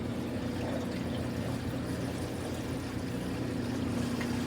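Laundry appliance running: a steady motor hum with a watery, rushing noise over it.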